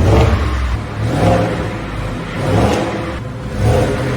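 Ford F-150 on its stock exhaust, with resonator and muffler in place, being revved in about four quick throttle blips roughly a second apart. The engine note rises and falls back each time.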